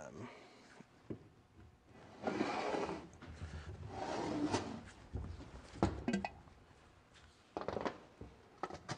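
Metal cylinder-head parts being handled on a workbench: scattered clinks and knocks, with two longer scraping, sliding noises a couple of seconds and about four seconds in.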